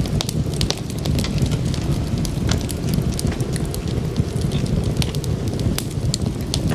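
Wood fire crackling and popping, with a steady low rumble of the flames and irregular sharp snaps several times a second.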